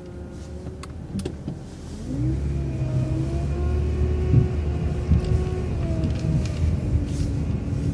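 Transit bus engine pulling away and accelerating, its low rumble growing louder about two seconds in, with a whine from the drivetrain that rises and then holds steady. A few sharp clicks and rattles sound over it.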